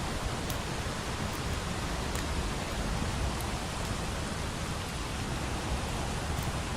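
Steady rain, an even hiss, with a few faint sharp crackles now and then from a wood fire.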